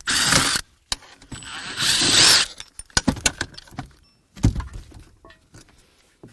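Clattering of hand tools and small metal parts: a loud rattle at the start, a longer scrape a second or so in, then scattered clicks and knocks, as screws are worked out of a car's center console.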